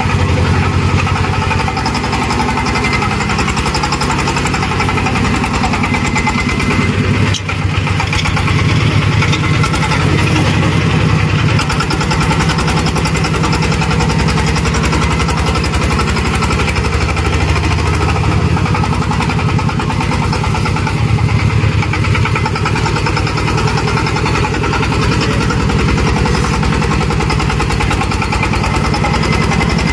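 A truck or tractor engine running steadily, with a brief dip in level about seven seconds in.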